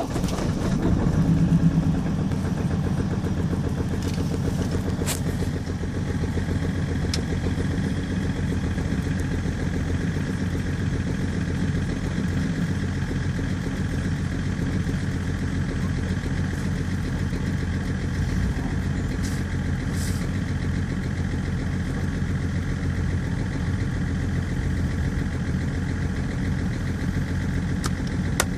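BMW E60 535d's twin-turbo 3.0-litre straight-six diesel on a cold start at −16 °C. It is louder in the first couple of seconds as it catches and flares, then settles to a steady cold idle.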